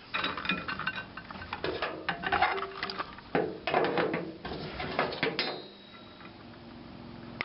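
Metal parts and tools clinking and clattering as scrap pieces are handled and set down on a workbench, a run of knocks for about five seconds. The last clink leaves a short metallic ring before it goes quieter.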